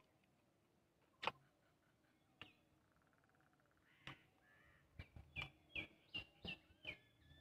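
Mostly quiet, with a sharp click about a second in. Near the end a bird calls about six times in quick succession, short falling notes.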